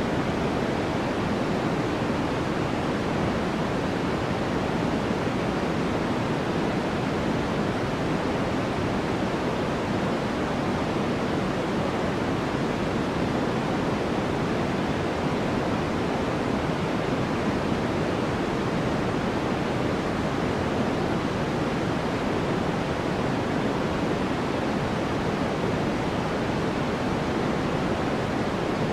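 Steady white-noise track: an even, unbroken rushing hiss, heavier in the low and middle range than at the top, with no changes or separate events.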